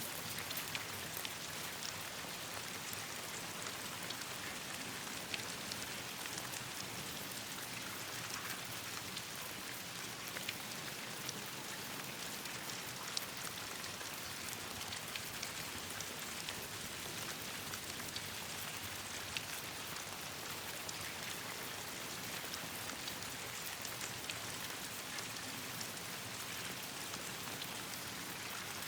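Steady rain pattering, with scattered sharp crackles from a burning campfire.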